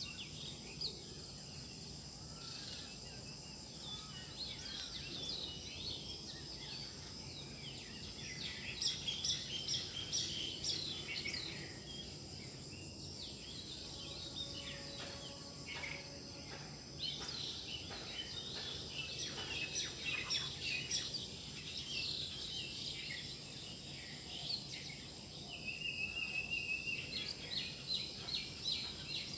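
Several garden birds chirping and singing in quick overlapping calls, busiest in three stretches, over a steady high-pitched background hum.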